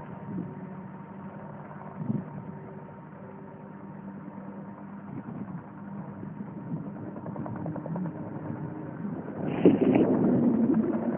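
Steady low engine hum with a faint higher whine, and a louder rush of noise about nine and a half seconds in.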